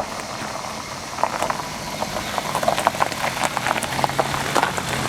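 Oriental stork clattering its bill: a rapid, irregular rattle of dry clicks that thickens about a second in.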